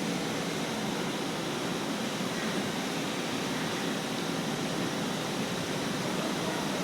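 Steady, even background noise like a hiss, with no distinct events.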